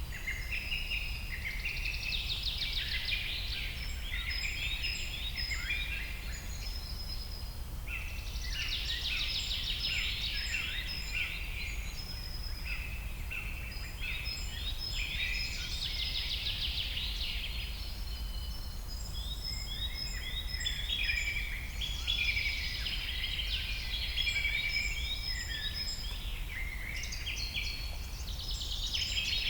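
A dense chorus of many birds chirping and trilling over one another, swelling in waves every few seconds, over a steady low rumble of jungle ambience.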